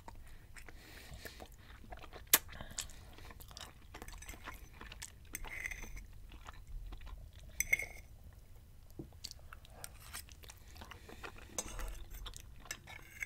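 Quiet, close-up chewing of a mouthful of spaghetti and sausage, with a metal fork clinking and scraping on a ceramic plate a few times; a sharp clink about two seconds in.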